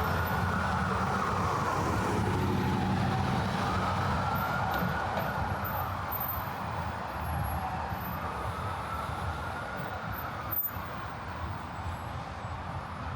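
An emergency vehicle's siren wails slowly up and down, about one rise and fall every four seconds, over the low rumble of city street traffic. It grows fainter in the second half.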